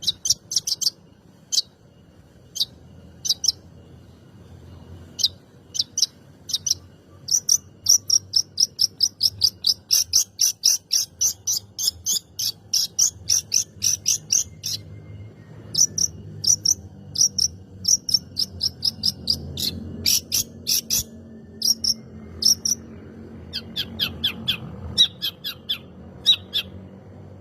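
Long-tailed shrike (cendet) singing a series of short, sharp, high notes, with a fast run of about three to four notes a second through the middle and another quick burst near the end. A faint steady low hum lies underneath.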